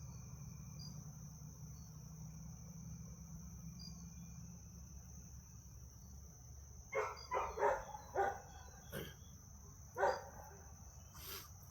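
Crickets chirring steadily in the background, with a dog giving a quick run of short barks about seven seconds in and one more around ten seconds.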